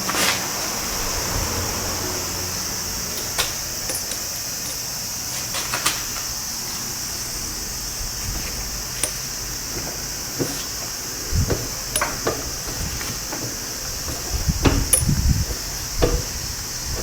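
Scattered clicks, metallic clinks and knocks, with a few heavier thuds near the end, over a steady high hiss.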